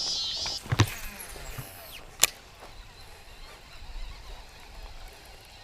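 Background music ends in the first half second. A couple of knocks follow, then one loud, sharp click a little over two seconds in, over quiet outdoor background.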